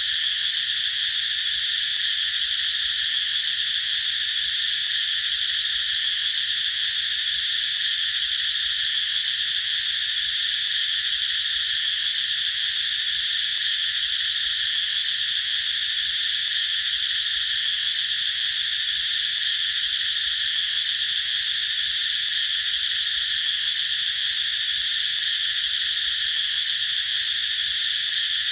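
Cicadas singing in a continuous, steady high-pitched drone with no breaks.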